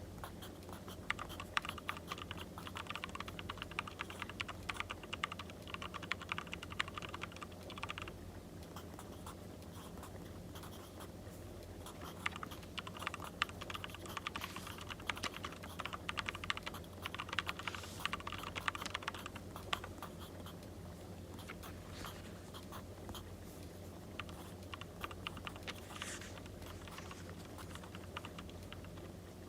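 Pen or pencil writing on paper in two long stretches of scratching, about seven seconds each, with shorter scribbles later. Behind it a steady low hum and faint scattered crackles of a wood fire.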